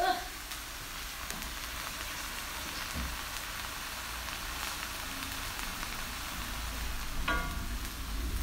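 Mushrooms, bell peppers, onion and pineapple sizzling steadily in a hot cast-iron skillet, with a wooden spoon stirring through the pan near the end. A short pitched sound cuts in about seven seconds in.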